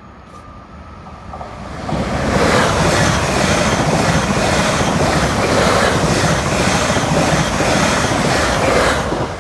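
Greater Anglia Class 745 electric multiple unit passing at speed over the level crossing. It comes up quickly about a second and a half in, then runs past loudly with a fast, regular clatter of its wheels on the rail joints for about seven seconds, dropping away sharply near the end as the last coach clears.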